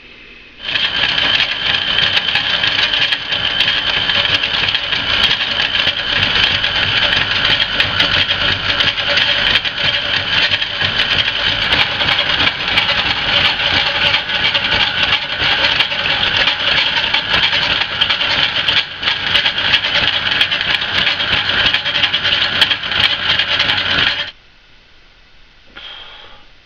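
A shop machine or power tool running steadily with a rattling, high-pitched tone. It starts suddenly about a second in and cuts off suddenly near the end.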